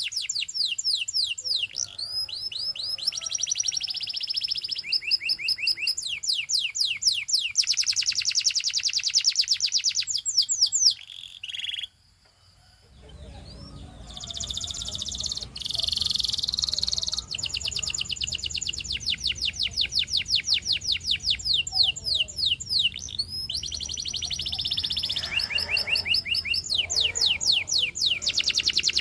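Domestic canary singing: long, rapid trills of repeated down-sweeping notes. The song breaks off for about a second near the middle, then resumes over a low background hum.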